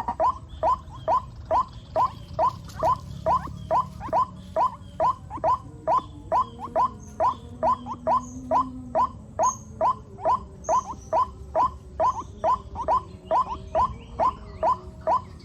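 White-breasted waterhen (ruak-ruak) calling: a long, even series of short rising notes, about two and a half a second.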